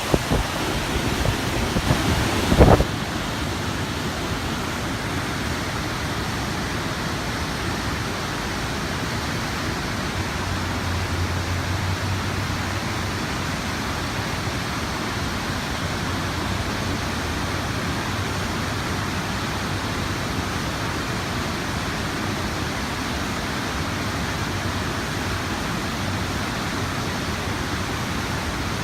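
River water flowing steadily, an even rushing noise. A brief knock about two and a half seconds in.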